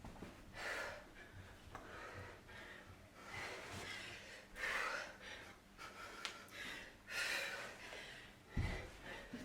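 Heavy breathing during exercise: several separate noisy breaths a second or more apart. A dull thump near the end is the loudest sound.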